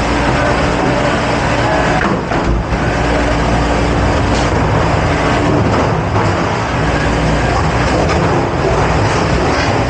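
Loud, steady running noise of a restaurant dish pit: a constant mechanical hum under a rushing hiss, dipping briefly about two seconds in.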